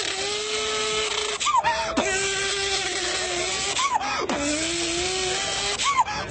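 A person imitating a Nissan RB26 straight-six engine with their voice: a steady buzzing idle note with three quick revving blips, about a second and a half, four and six seconds in.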